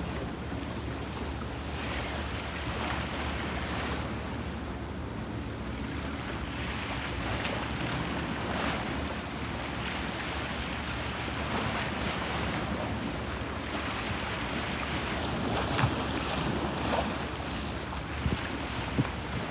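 Bosphorus sea waves washing and splashing in surges every few seconds, with wind on the microphone and a steady low rumble underneath. A few sharper splashes come near the end.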